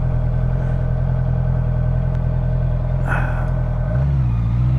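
2018 Honda CB650F inline-four engine running at a steady cruising speed; about four seconds in the engine note shifts as the throttle changes.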